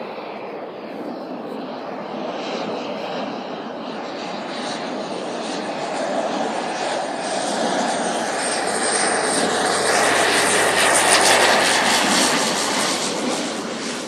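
Propeller aircraft's engine on its landing approach, growing steadily louder as it nears and passes, loudest about three-quarters of the way through, then easing off slightly.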